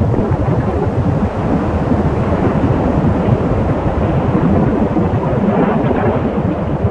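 Storm wind buffeting the microphone: a loud, steady, unbroken low rumble with gusty flutter and no distinct events.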